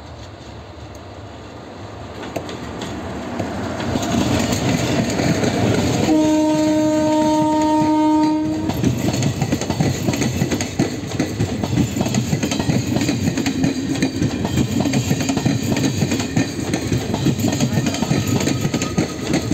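An electric locomotive hauling a passenger train approaches, growing steadily louder, and sounds one long horn blast of about two and a half seconds as it draws level. The coaches then pass close by with a fast, rhythmic clickety-clack of wheels over the rails.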